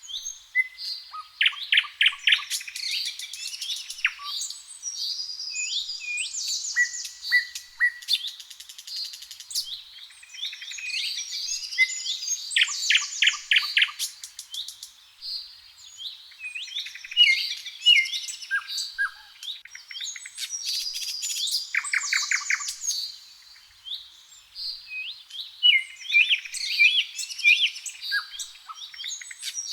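Several songbirds singing together in a dawn chorus: overlapping chirps, short whistled phrases and fast trills.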